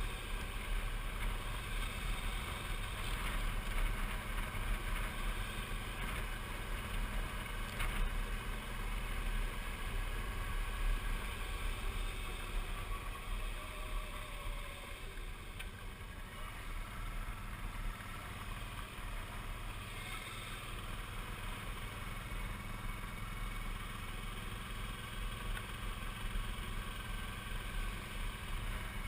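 Suzuki V-Strom 650's V-twin engine running steadily while riding, mixed with rushing wind noise on the microphone.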